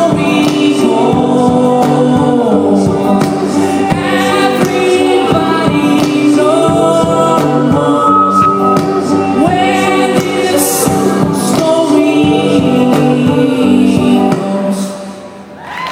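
A band playing live with several voices singing long held notes over a steady beat; the song dies away near the end.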